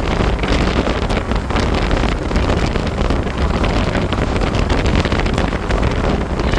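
Strong wind buffeting the microphone, a loud, rumbling, fluttering noise with no let-up.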